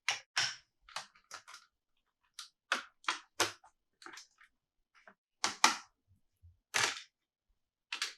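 Irregular sharp taps and clicks from hands handling a plastic Lightning McQueen toy and its packaging, about fifteen strokes, some in quick pairs.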